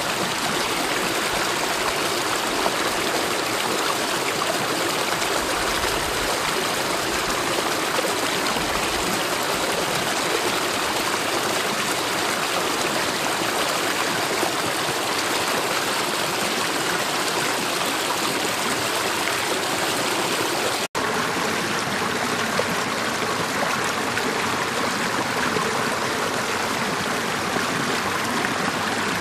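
Mountain valley stream running steadily, a continuous even rush of water, with a momentary dropout about two-thirds of the way through.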